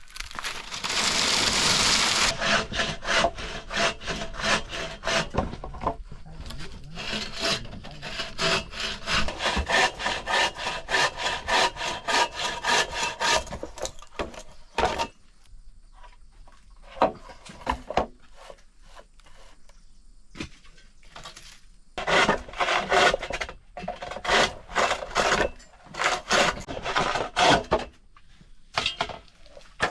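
Hand saw cutting wood with repeated back-and-forth strokes, several a second. The sawing pauses midway and then resumes for a second run of strokes.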